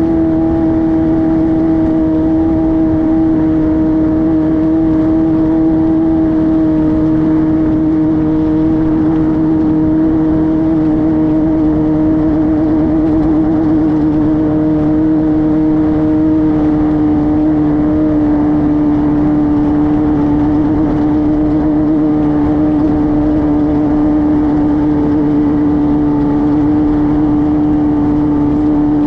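Class 5-1600 race car's air-cooled 1600cc Volkswagen flat-four running hard and steady, a constant drone whose pitch sinks slightly over the half-minute.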